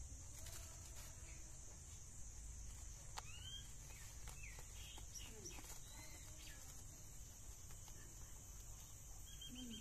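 Small birds chirping in short, repeated calls from about three seconds in, over a steady high-pitched hiss and a low rumble.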